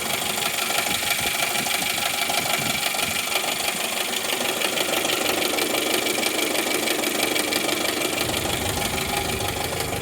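Jeep Wrangler TJ four-cylinder engine running with a fast, steady knocking noise that is hard to place; the owner thinks it may be coming from the bottom end of the engine.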